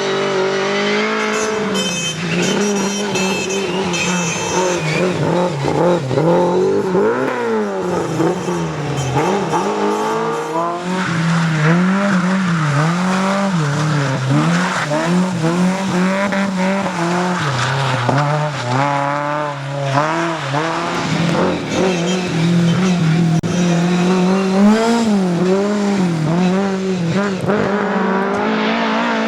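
Rally car engine revving hard and rising and falling in pitch again and again through throttle changes and gear shifts, with tyres squealing as the car slides.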